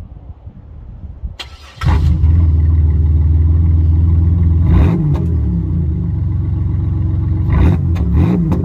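Chevrolet Monte Carlo SS engine starting about two seconds in, after a few clicks, then running at a deep idle through its aftermarket mufflers, with its pitch wavering a few times.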